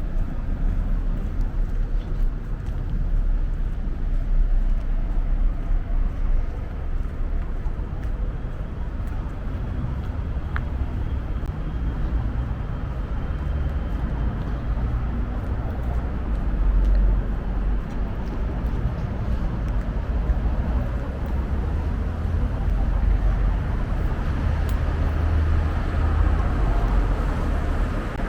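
Outdoor street ambience with road traffic going by: a steady low rumble that swells as vehicles pass, about two thirds of the way in and again near the end.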